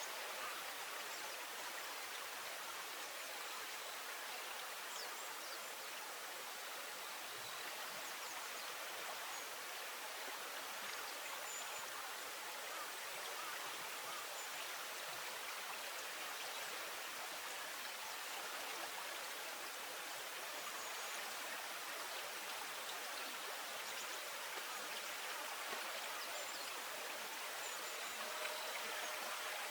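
Steady, even rush of flowing water, with a few faint high chirps.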